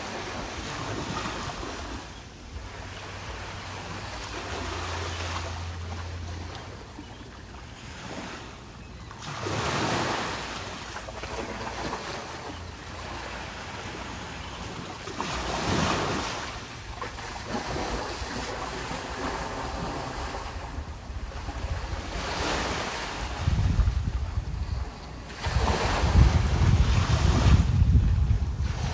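Small waves breaking and washing up on the shore, a wash every six seconds or so. Wind buffets the microphone with a low rumble in the last few seconds.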